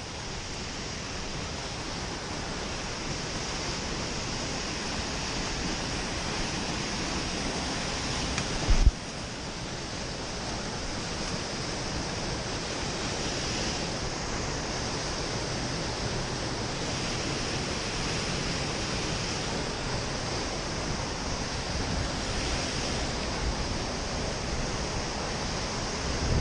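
Waterfall's steady rushing roar of falling water, even and hissy. About a third of the way in comes one short, loud thump, the loudest moment.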